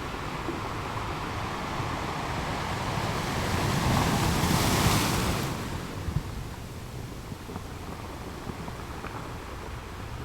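Ocean waves breaking: the surf swells to a hissing crash about four to five seconds in, then ebbs away.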